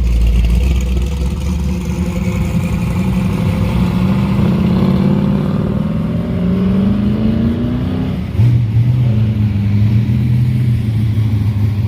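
Classic car engines running at a car show: one engine rises slowly in pitch as it accelerates, then about eight seconds in a louder, steady, deeper engine note comes in.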